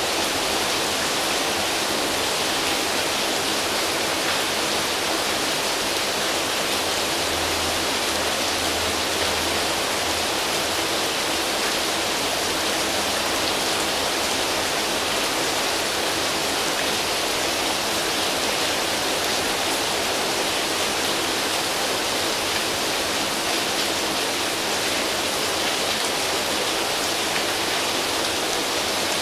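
Rain falling steadily on foliage, an even hiss that holds at one level with no let-up.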